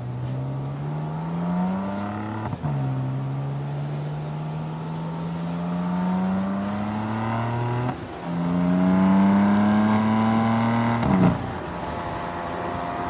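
2014 BMW M3's twin-turbo inline-six accelerating hard. The engine note rises and drops suddenly at gear changes about two and a half seconds in and eight seconds in. About eleven seconds in there is a loud sharp crack, and after it the engine holds a steadier, lower note.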